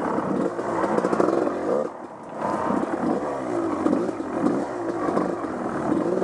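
Off-road vehicle engine revving up and down repeatedly as it is ridden, easing off briefly about two seconds in.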